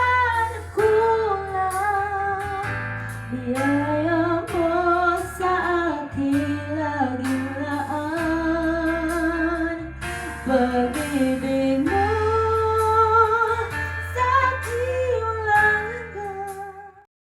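A voice singing a Tagalog worship song over guitar and bass accompaniment, played through a PA system run from a Yamaha MG16XU mixer. The song cuts off suddenly near the end.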